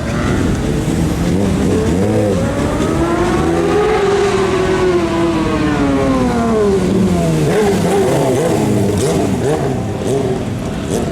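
Several sport motorcycle engines revving and accelerating at once, their pitches sliding up and down over one another. One engine climbs steadily in pitch for a couple of seconds, then falls away.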